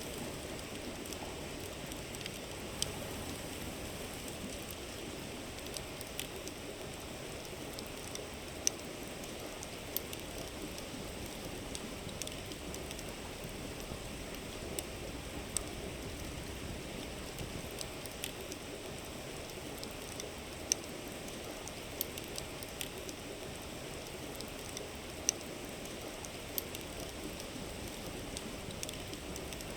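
Steady rush of a flowing river, with a wood campfire crackling over it in sharp, irregular pops every few seconds.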